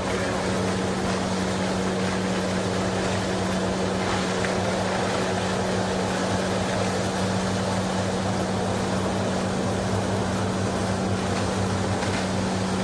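Industrial PE/PP plastic washing machine running steadily: a constant motor hum under a churning, water-like rush.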